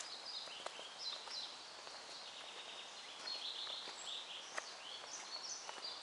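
Several songbirds chirping and twittering, short high calls overlapping one another throughout, with a few faint clicks in between.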